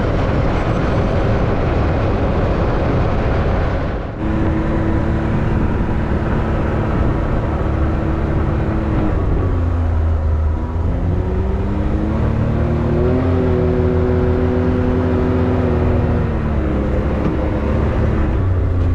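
Can-Am Maverick X3 side-by-side's three-cylinder engine running under way on a trail, its note dipping and climbing again as the throttle comes off and back on, about halfway through and near the end.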